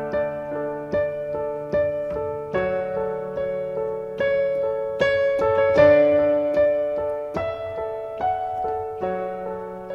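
Piano playing an instrumental passage between sung lines: sustained chords over a bass note, a new chord struck about every 0.8 seconds.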